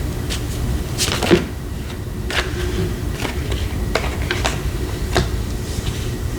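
Tarot cards being handled on a table: a scattering of light taps and clicks, the loudest about a second and a half in, over a steady low hum.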